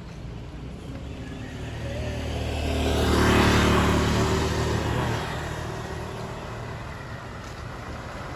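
A motor vehicle passing close by: engine rumble and road noise grow to a peak about three seconds in, then fade away.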